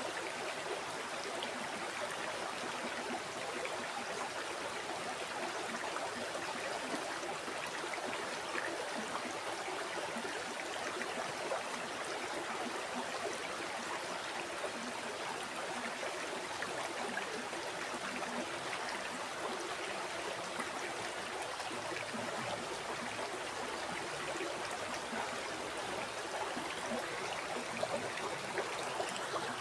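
A river or stream flowing steadily, a constant rushing and babbling of water over rocks with small splashes.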